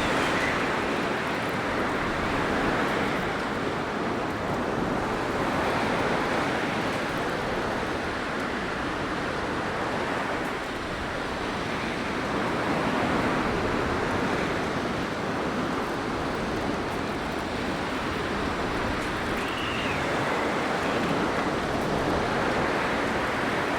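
Blizzard wind blowing, a steady rushing noise that swells and eases every few seconds.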